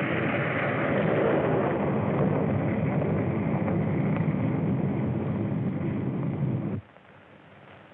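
Loud, continuous rumbling roar of a train wreck sound effect, cutting off abruptly about seven seconds in.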